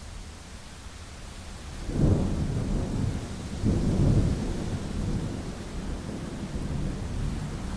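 A thunderclap breaks about two seconds in and rolls on as a low rumble, swelling again a couple of seconds later, over a steady hiss of rain.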